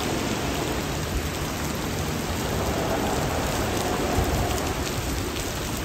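Heavy rain coming down hard: a steady, even hiss.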